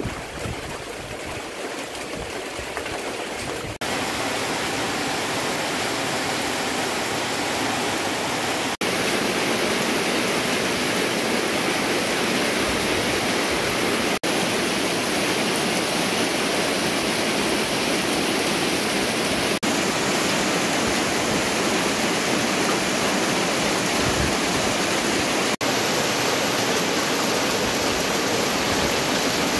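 Heavy tropical rain pouring down steadily, a dense even hiss. There is a brief dip and a slight change in its tone every five seconds or so.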